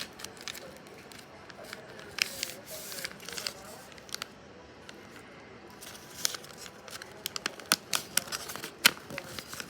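A sheet of paper being handled and folded into a boat: irregular crinkles, rustles and sharp creasing clicks, with a quieter stretch around the middle.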